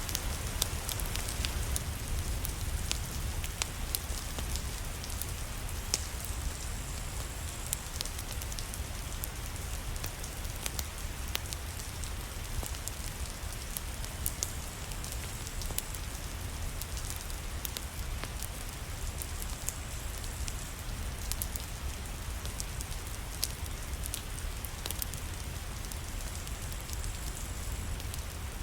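Steady rain with a low rumble underneath, scattered through with sharp crackles and pops from a wood fire.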